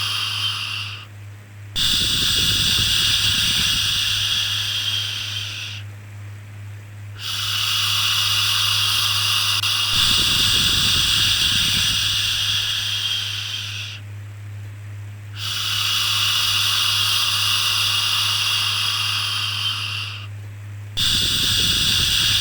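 Repeated long 'shhh' shushing sounds for soothing a baby. Each shush lasts four to seven seconds, with a pause of about a second between them, over a steady low hum.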